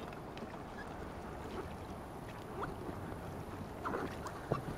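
Kayak paddles in river water: a few small splashes and drips, the loudest about four and a half seconds in, over a steady hiss.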